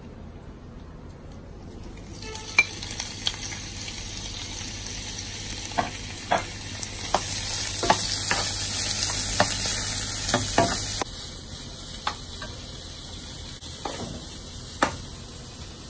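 Sliced onion sizzling in a hot non-stick frying pan, starting about two seconds in as it goes into the oil. The sizzle is strongest in the middle and eases off after about eleven seconds. A metal spoon clinks and scrapes against the pan every second or two as the onion is stirred; these clicks are the loudest sounds.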